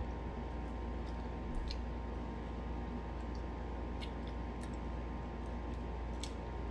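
Scattered soft clicks and smacks of someone eating close to the microphone, over a steady low hum.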